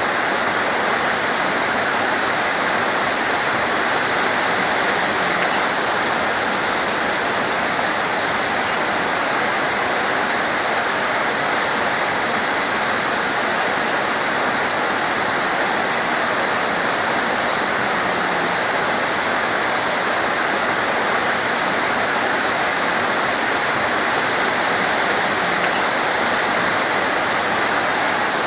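Heavy torrential rain pouring down steadily, a dense, even hiss that does not let up. A single brief click about halfway through.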